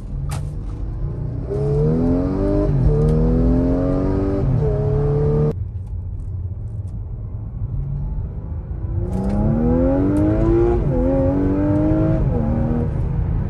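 Audi SQ5's 3.0-litre V6 heard from inside the cabin under hard acceleration, in two separate runs: each time the engine note climbs and falls back at each upshift of the automatic gearbox. The first run cuts off abruptly about five seconds in.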